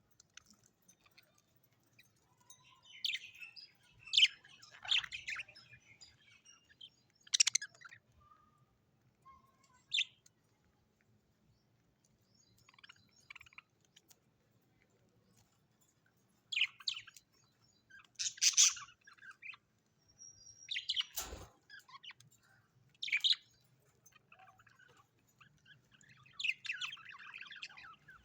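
Birds chirping and calling in short, scattered bursts with pauses between them, several calls loud and sharp, and a single sharp knock about two-thirds of the way through.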